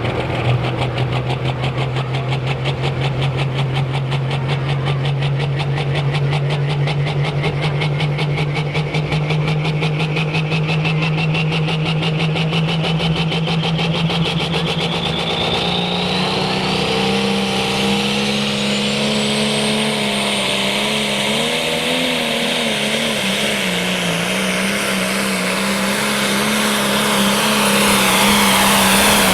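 Turbocharged diesel pulling tractor running hard at high revs. A high turbo whine climbs steadily over most of the run, and the engine note steps higher about halfway through, then wavers as it works against the sled.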